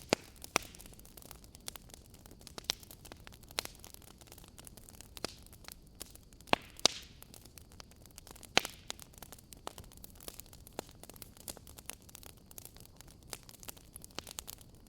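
Fireplace crackling: irregular sharp pops and snaps over a faint steady hiss, with a few louder pops around the middle.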